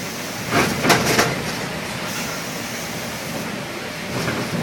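Inside an articulated diesel city bus (New Flyer D60LFR) in motion: steady engine and road rumble, with a few sharp knocks and rattles about a second in.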